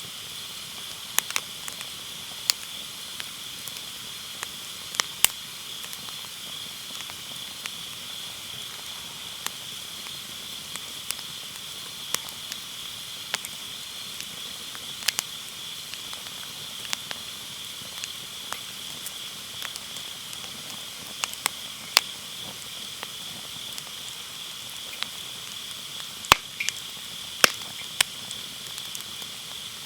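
Firewood burning in a round fire pit, crackling with sharp irregular pops every second or so. Under it, autumn grass insects keep up a steady high chirring.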